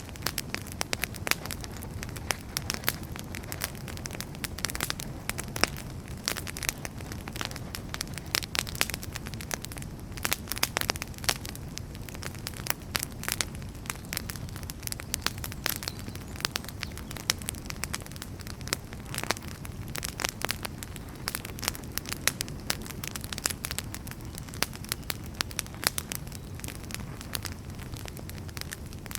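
Wood fire burning in a fireplace: dense, irregular crackles and pops of the burning logs over a steady low rush of flame.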